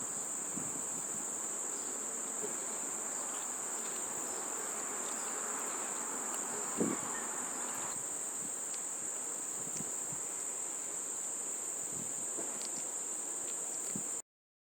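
Insects, crickets by the sound of it, trilling in one steady, continuous high-pitched drone, with a single soft thump about seven seconds in.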